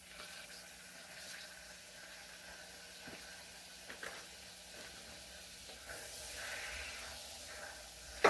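Butter melting in a pan on a hot plate, sizzling with a steady hiss and a few light ticks; the cook thinks the heat might be a little too high.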